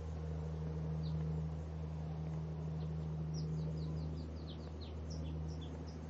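Small songbird chirping: a few single high, down-slurred notes, then a quick run of about a dozen in the second half, over a steady low hum.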